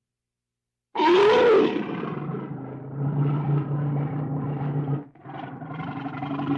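A bear roaring: after a second of silence, a sudden loud roar that rises and falls in pitch, running into steady low growling that breaks off briefly about five seconds in and then resumes.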